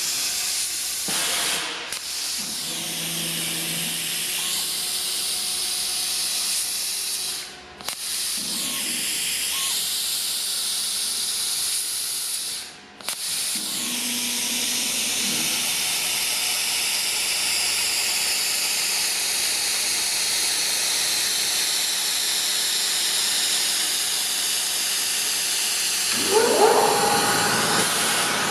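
Plasma cutting torch cutting 4 mm steel at 65 A: a steady loud hiss of the arc and gas jet. It stops briefly three times, as the arc goes out between cuts and is struck again. A short gliding whine comes near the end.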